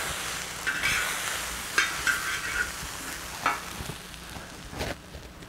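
Fried rice sizzling in a steel plow-disc wok while a spatula stirs and scrapes across the pan in a few short strokes. The sizzle fades as the burner is shut off.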